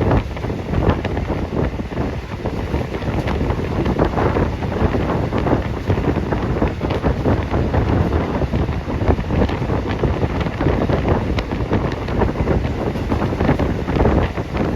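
Strong wind buffeting the microphone: a loud, steady rushing rumble that rises and falls in gusts throughout.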